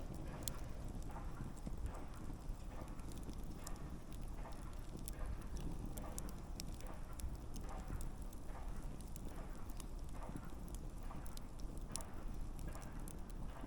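Wood campfire burning, a steady low rumble of flames with frequent, irregular sharp crackles and pops from the burning logs.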